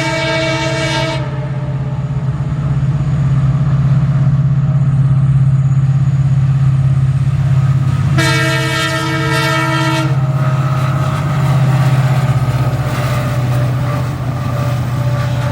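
WDP-4B diesel locomotive running with a steady low engine drone, sounding its horn twice: one blast ending about a second in, and another of about two seconds some eight seconds in.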